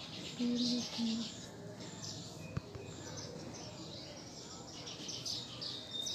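Birds chirping in the background, with a single sharp click about halfway through.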